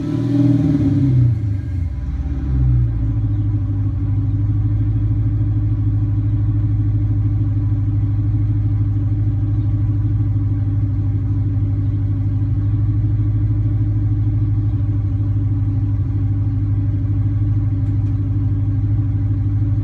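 Supercharged 5.7-litre Hemi V8 of a 2015 Dodge Charger R/T, heard through a Flowmaster 40 muffler with the resonator deleted. A few quick throttle blips in the first three seconds, then it settles into a steady, even idle.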